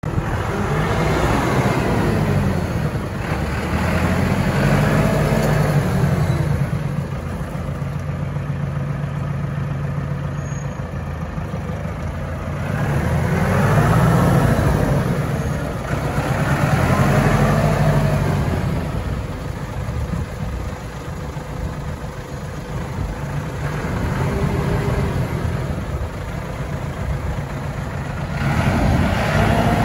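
Landini Powerfarm 100 tractor's diesel engine running, revving up and dropping back several times.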